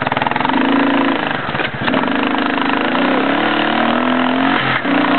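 Towing vehicle's engine running under way, its pitch stepping up about three seconds in, over a steady rush of wind.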